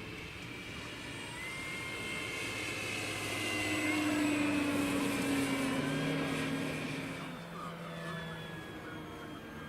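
Electric motor and propeller of a large scale RC warbird model whining as it flies past. It grows louder to a peak about halfway through, then fades as its pitch drops.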